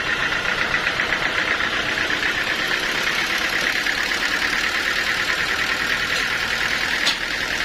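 Heavy sawmill machinery running steadily, an engine-driven drone with a fast, even pulsing, and a single sharp click near the end.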